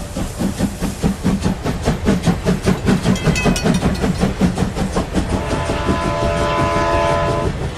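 Train sound effect: a train's wheels clattering over the rail joints in a fast, even rhythm, with a long held horn tone near the end.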